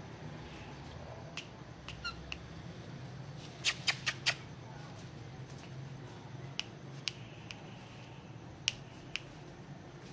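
Ringneck parakeet giving short, sharp chirps, scattered through, with a quick run of four about four seconds in.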